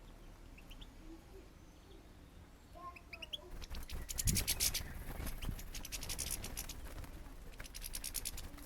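Small garden birds at a seed feeder: a few short rising chirps, then a thump about four seconds in, followed by rapid, dry scratchy clicking and rustling close by, in stretches up to the end.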